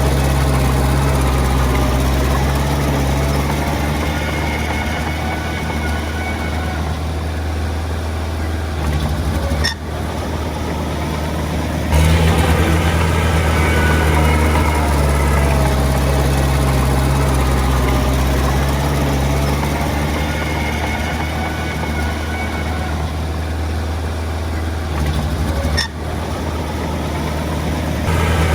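Diesel engine of heavy earthmoving machinery running steadily with a deep drone, its sound shifting suddenly about ten, twelve and twenty-six seconds in.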